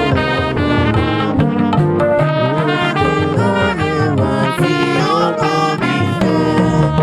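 Church band music playing an instrumental passage: a horn-like melodic lead over steady rhythmic chords.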